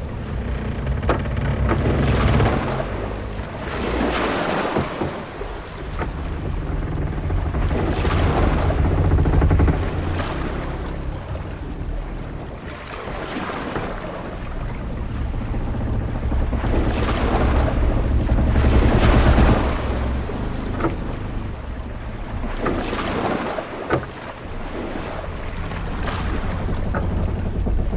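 Sea waves washing against a ship's hull over a steady low wind rumble, each wash swelling and fading every few seconds, with a few faint short knocks.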